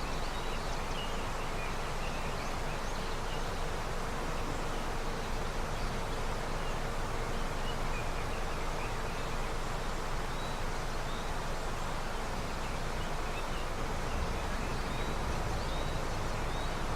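A snowmelt river running steadily, with small bird chirps now and then over the water.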